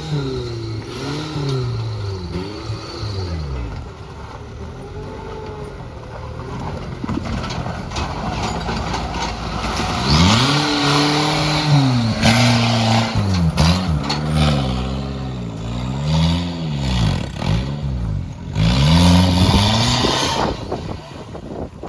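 Off-road 4x4's engine revving again and again, its pitch rising and falling over and over, loudest from about halfway through, with rushes of noise over the revs.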